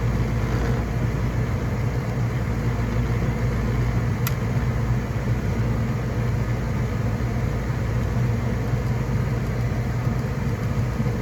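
Gas furnace running with its blower and draft inducer motor on, a steady, even hum. A single sharp click comes about four seconds in.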